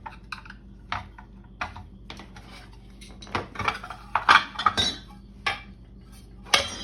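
Metal clinking and knocking as solid cast-lead waffles are worked out of a waffle-iron plate: a scatter of sharp clinks, busiest in the middle.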